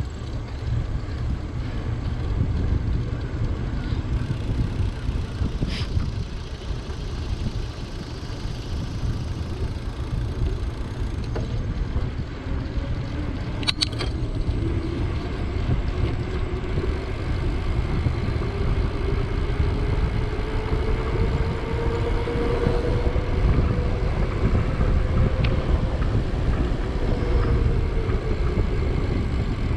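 Wind buffeting the microphone of a camera on a moving bicycle, a steady low rumble with tyre noise under it. A faint hum slowly rises in pitch through the second half and drops near the end, and there are a couple of short clicks.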